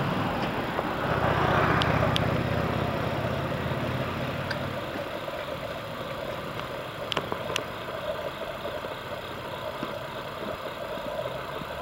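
Electric train running by, swelling about a second in and then fading away to a faint steady hum, with a few sharp clicks near the middle.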